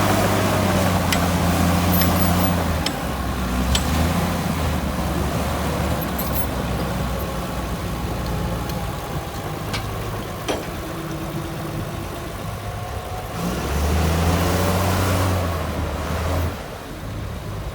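Heavy diesel engine of earthmoving equipment running. It is loudest in the first few seconds and again for a few seconds near the end, and is fainter in between, with scattered clicks and knocks.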